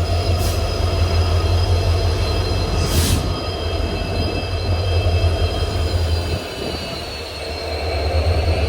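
Passenger train wheels squealing on the curves of a ghat section: several steady high whines over a low running rumble, one whine drifting in pitch in the second half. Two short bursts of hiss come about half a second and three seconds in.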